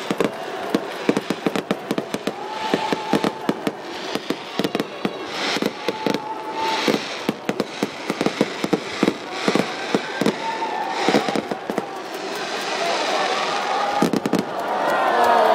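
Fireworks display: a dense, continuous string of sharp bangs and crackling pops, with whistling tones, and several falling whistles together near the end.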